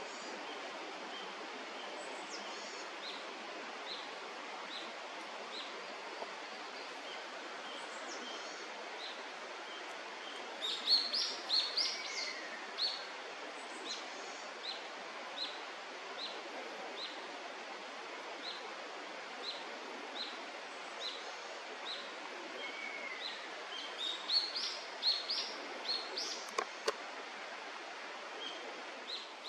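Birds calling over a steady outdoor background hiss: a short high chirp repeats about once or twice a second, with two flurries of louder, higher calls, one about a third of the way in and one near the end. A couple of sharp clicks come just before the end.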